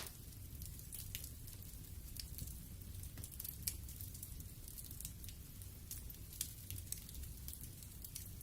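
Wood fire in a fireplace crackling: scattered sharp pops and ticks, several a second, over a soft low rumble of the flames.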